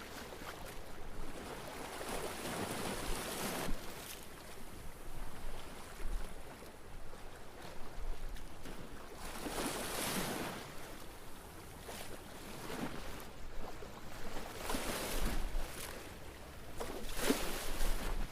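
Water washing and lapping in swells every few seconds, the sound of waves slapping against a Venetian canal or lagoon edge.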